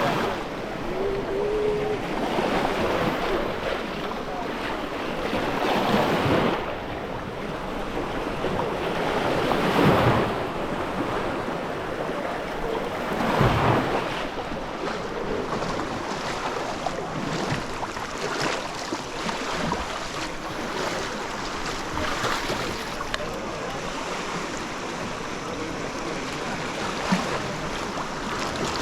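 Sea waves washing onto a sandy beach in a steady wash, with several louder surges as waves break.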